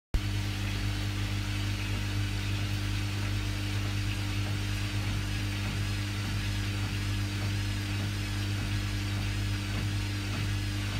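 Bauknecht washing machine running with a steady motor hum and a faint high whine that wavers slightly up and down.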